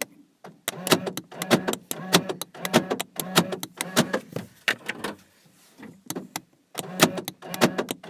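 Rapid runs of sharp clicks, several a second, with a pause of about a second and a half a little past the middle.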